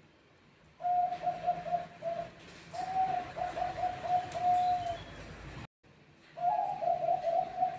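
Zebra dove (Bangkok-bred perkutut) singing: rapid runs of short, clear coo notes on one pitch. A first bout of song breaks off for a moment of silence, and a second bout starts about six and a half seconds in.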